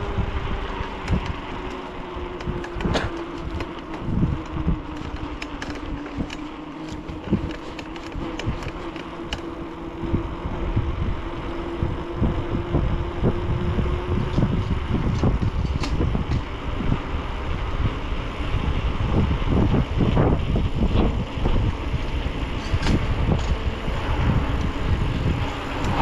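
Wind buffeting the microphone and road rumble while riding a bicycle, with scattered clicks and a faint steady hum that slowly drops in pitch over the first half; the rumble grows heavier in the second half.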